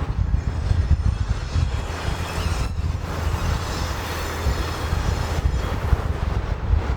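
A train running by, with a heavy rumble throughout and wind buffeting the microphone.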